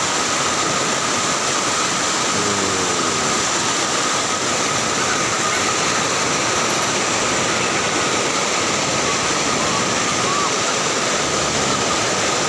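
Steady rushing water of a river or waterfall, with a faint steady high tone running under it.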